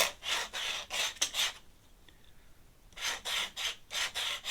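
Ink pen scratching across paper in quick strokes: two runs of about half a dozen strokes each, with a pause of over a second between them.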